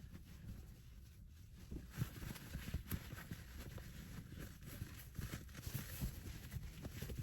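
Faint, irregular light knocks and rustling from objects being handled, with a few slightly louder taps about 2, 3 and 5 seconds in.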